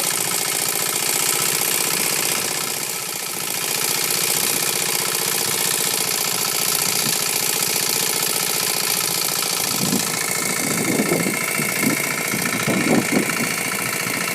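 A small engine running steadily at idle, with an even, unchanging hum.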